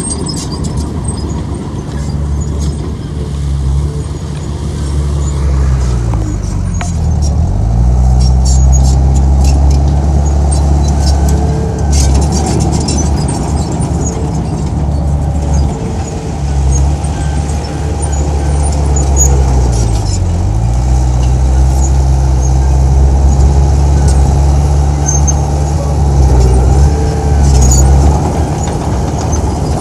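Heavy diesel engine of earthmoving machinery running steadily under load; its pitch drops sharply and climbs back about seven seconds in and again about twenty seconds in, with scattered sharp clicks over the top.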